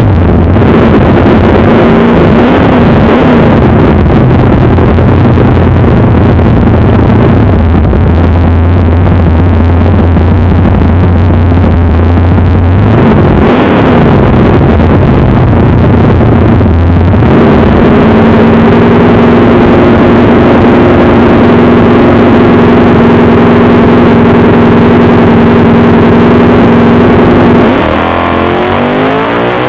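Engine of a 1965 Mustang race car running loud and steady. Its pitch briefly rises and falls a little before halfway, then steps up to a higher steady note a little after halfway, and falls away near the end.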